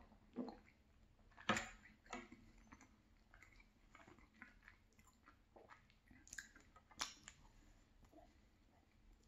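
Chewing of soft, moist marble cake, with wet mouth clicks and smacks. A single sharp knock about a second and a half in is the loudest sound.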